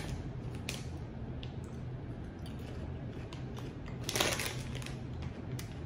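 Quiet crunching and chewing of caramel-coated popcorn with peanuts, with a few faint crackles and one louder burst of crackling about four seconds in.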